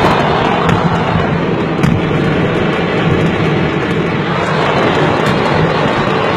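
Stock of a fireworks market going off en masse: a dense, continuous roar of detonations with many sharp crackles scattered through it, heard from inside a car.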